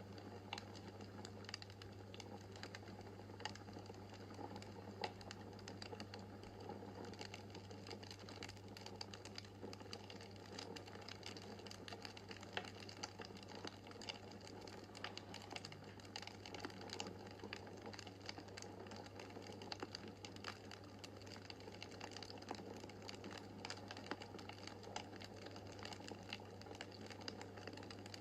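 Wood fire crackling in a fireplace: frequent small sharp pops and snaps over a soft steady rush, with a steady low hum beneath.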